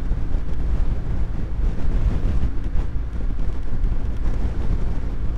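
BMW R1200GS Adventure's boxer-twin engine running steadily while riding, with a low rumble and heavy wind noise on the helmet microphone.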